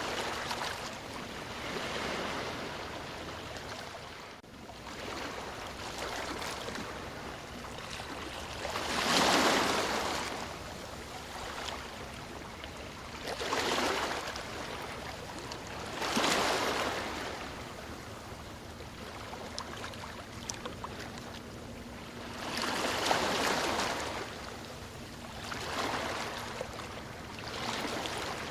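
Ocean surf: waves breaking and washing up the shore, rising and falling in swells every few seconds, with the loudest surge about a third of the way in.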